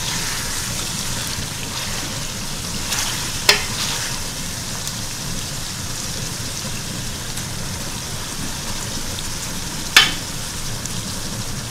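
Chicken and tomato masala sizzling in a metal pot as a wooden spatula stirs it. Two sharp knocks cut through, one about three and a half seconds in and another near the end as fried okra is tipped in from a strainer.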